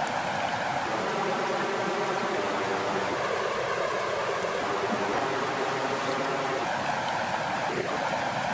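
Steady rush of flowing water, an even continuous wash of sound.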